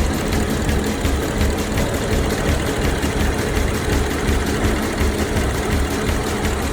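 Gasoline direct-injection (GDi) engine idling steadily.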